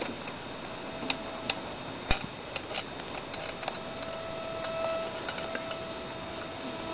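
Steady electronic hum in the camera's audio, interference from the RC car's radio transmitter bleeding into the camera electronics, with scattered faint clicks.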